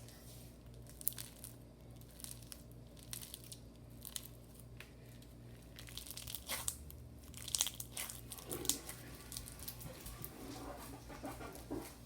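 Irregular clicks, crinkles and rustles of things being handled, busiest about two-thirds of the way through.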